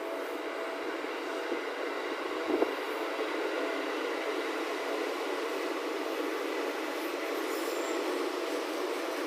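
Seibu 2000 series electric train moving at low speed, with a steady rail noise and a faint whine. A single clunk comes about two and a half seconds in.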